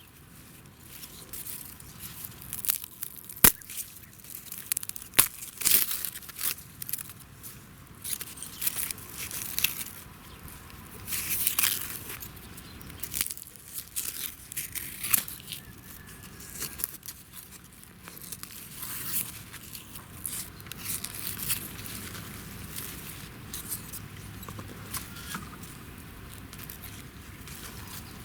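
Dry plant material being worked by hand, giving irregular crackling, rustling and tearing with a few sharp snaps.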